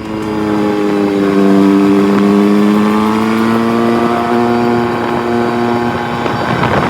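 Rally car engine held at high revs, its note climbing slowly over the first couple of seconds and then holding steady, with a rougher crackling burst near the end.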